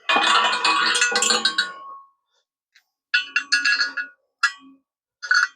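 Metal parts and tools clinking and ringing against each other: a long jangling burst over the first two seconds, then three shorter clanks near the end.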